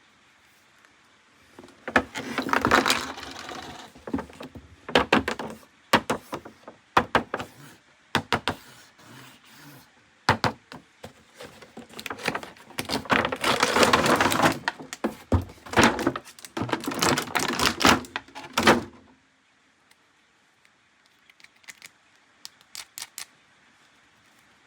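Plastic toys and their packaging being handled: an irregular run of clicks, knocks and rustling, thickest in the middle, then a few faint clicks near the end.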